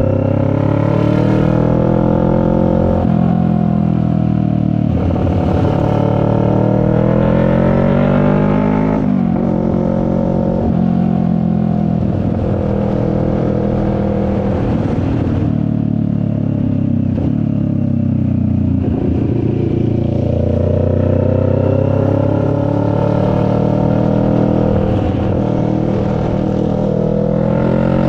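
CFMoto 400NK's parallel-twin engine under way, its revs climbing and falling back several times as the bike accelerates and shifts, with a low rush of wind underneath.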